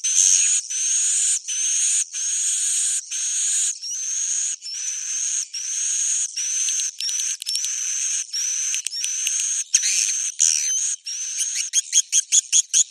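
Recorded swiftlet roosting call ('suara inap'), the lure sound played in swiftlet houses to draw edible-nest swiftlets in to roost. It is a steady series of buzzy chirps, each ending in a rising whistle, about every three quarters of a second, breaking into a fast run of short chirps near the end.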